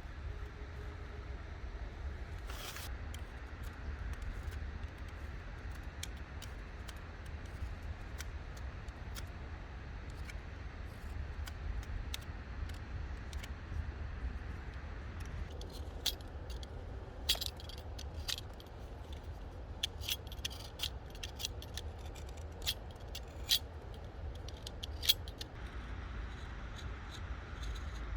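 Small hard objects clicking and clattering as they are handled, in a busy run of sharp clicks from just past the middle until near the end, over a steady low rumble.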